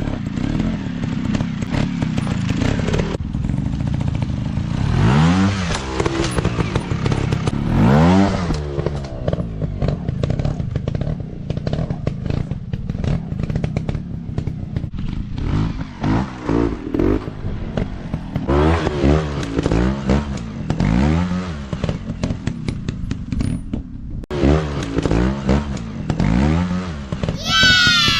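Dirt bike engines revving in repeated short bursts, pitch rising and falling again and again, with clattering and scraping throughout. Near the end a higher-pitched whine rises and falls briefly.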